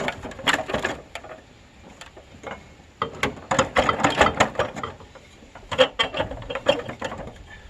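Hand tools knocking, clicking and scraping on rusty metal in three clustered bouts, as rusted parts are worked free.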